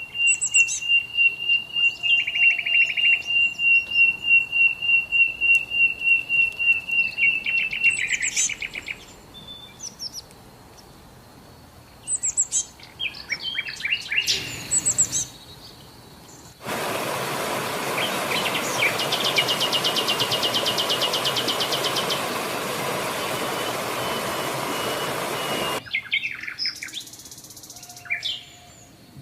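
Songbirds calling: a fast, even trill of high notes for the first eight seconds, then scattered chirps and tweets. About halfway through, a steady rushing noise cuts in abruptly and stops just as abruptly about nine seconds later, with a rapid high trill over it. Chirping resumes near the end.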